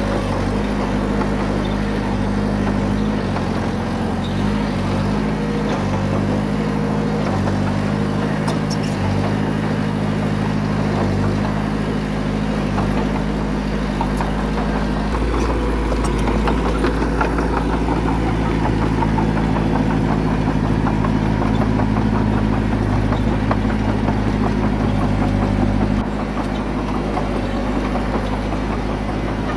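Heavy earthmoving machine's diesel engine running steadily. About halfway it grows louder and deeper, and it eases back near the end.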